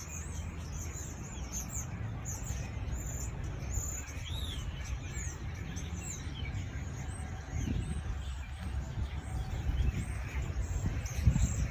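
Several songbirds singing and chirping, many quick high-pitched chirps overlapping, over a steady low rumble.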